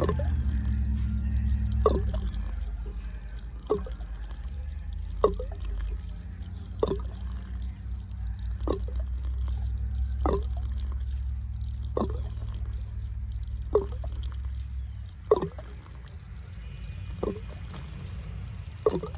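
Water dripping into standing water, one drop about every second and a half to two seconds, over a low steady hum.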